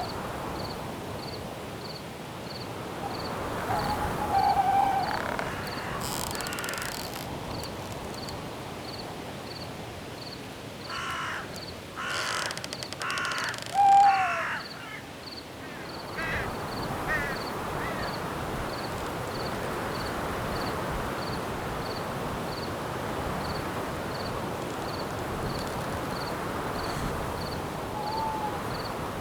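Night forest ambience: a steady hiss of wind, a cricket chirping about twice a second, and owl calls about four seconds in and again near the middle. Between these, a short run of harsh, caw-like bird calls is the loudest thing.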